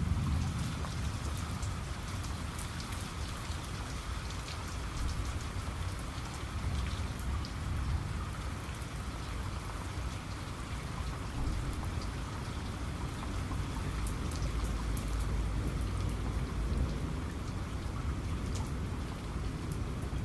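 Steady heavy rain with a constant low rumble, and individual drops hitting the surface in scattered sharp ticks.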